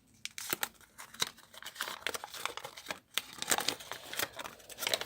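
Wrapping paper and packaging crinkling and tearing as a wrapped gift is unwrapped by hand, in irregular crackles and rustles.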